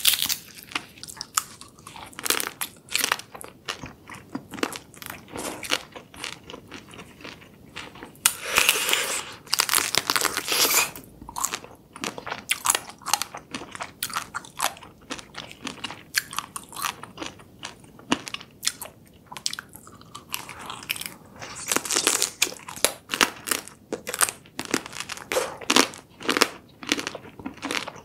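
Close-miked eating sounds: crab shell and legs being bitten and crunched, with wet chewing between bites, in irregular crackly clusters that come thicker at times.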